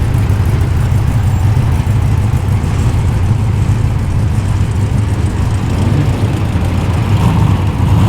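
Modified car engine running with a steady deep rumble as the car rolls slowly past.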